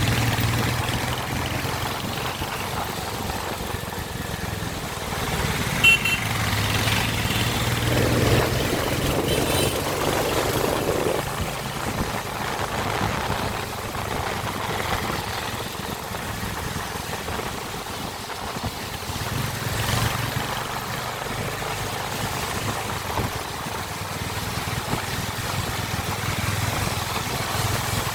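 Royal Enfield Hunter 350's single-cylinder 349 cc engine running, swelling louder a couple of times as the revs rise. There is one short sharp click about six seconds in.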